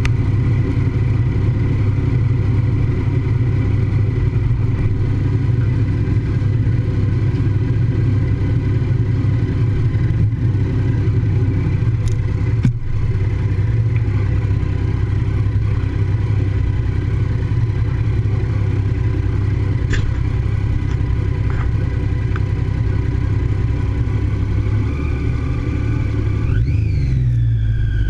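Triumph Daytona 675 three-cylinder sport-bike engine running at a steady low speed, then revving up sharply near the end, its pitch climbing and then easing to a higher steady note.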